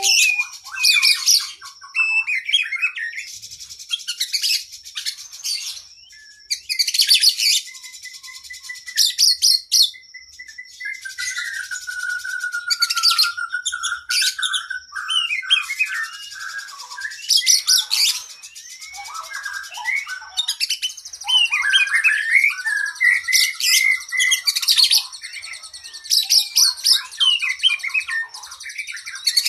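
Oriental magpie-robin (kacer) singing a long, varied song. Loud high buzzy trills come back every few seconds between whistled phrases and quick chirps, with one long wavering whistle in the middle.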